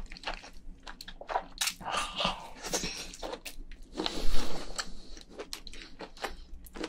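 A person chewing and biting mouthfuls of cooked crayfish meat, with many short wet clicks and smacks and a louder, noisier stretch about four seconds in.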